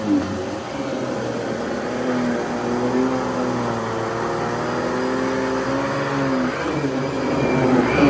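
Fantom Lightning canister vacuum cleaner running steadily, its motor hum drifting slightly up and down in pitch through the middle as the airflow or load changes.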